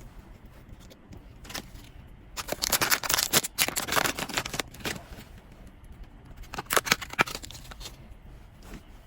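Blind-box packaging being handled and opened: crinkling, crackling rustles of plastic and paper wrapping in two bursts, a longer one a couple of seconds in and a short one about seven seconds in.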